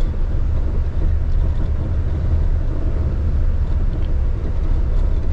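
Steady low rumble of a truck's engine and road noise heard inside the cab while driving at an even pace.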